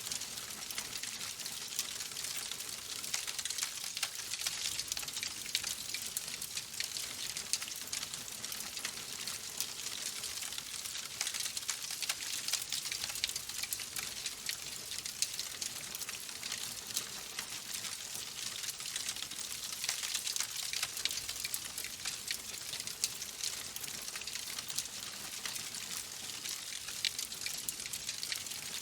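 Burning logs in a fireplace crackling steadily, a constant hiss with many small rapid pops and snaps throughout.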